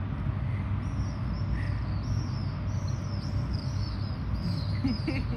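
A small bird chirping over and over in short, high, arched notes, starting about a second in, over a steady low outdoor rumble.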